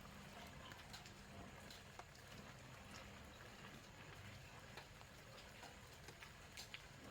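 Near silence: faint room tone with a low steady hum and a few faint light ticks.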